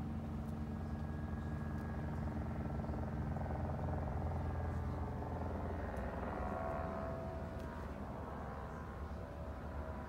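Steady low hum of a running motor vehicle engine, with a higher engine tone coming in around the middle.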